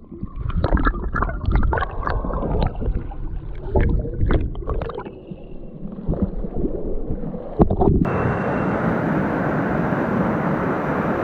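Stream water gurgling and splashing in irregular bursts with some knocks, then about eight seconds in a sudden cut to the steady rush of flowing stream water.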